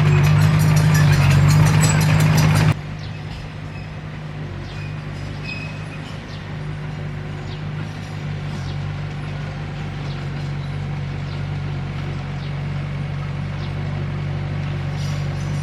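Diesel engine of a Komatsu D21P small crawler bulldozer running steadily. Loud for the first few seconds, then it drops suddenly to a quieter, steady hum, with faint high chirps over it.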